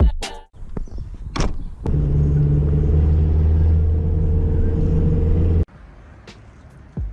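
Engine running at a steady pitch, a low even hum that starts about two seconds in and cuts off suddenly later on, after a few sharp clicks and knocks.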